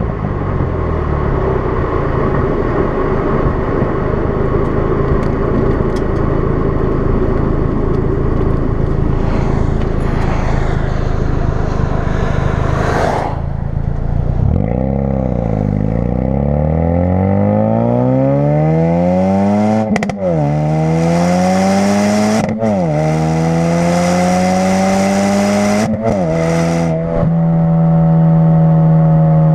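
2016 Ford Focus RS's turbocharged 2.3-litre four-cylinder through a custom exhaust: running steadily for the first half, then pulling hard, the pitch climbing through the gears with a sharp drop and a brief burst at each of three upshifts, and settling to a steady drone near the end.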